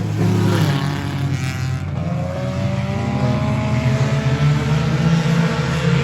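A pack of Stinger-class race cars running at racing speed just after a green-flag restart: several engines overlapping, their pitch rising and falling as the cars rev and pass.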